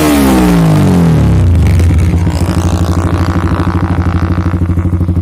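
Motorcycle engine breathing through a WRX GP K1 aftermarket exhaust: the revs fall away after being run up toward the rev limiter, then settle about two seconds in into a steady, evenly pulsing idle.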